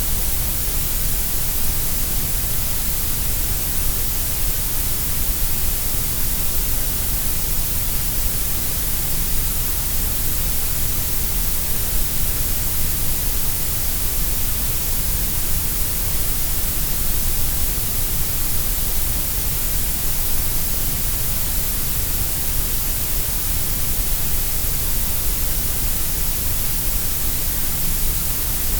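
Grey noise: a steady, unbroken synthetic hiss, stronger in the deep lows and the highs with a dip through the middle, shaped to sound about equally loud at every pitch.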